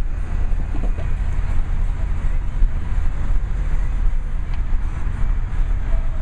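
Ford F-150 pickup with a glasspack exhaust running at a steady pace, a loud, continuous low rumble without revving.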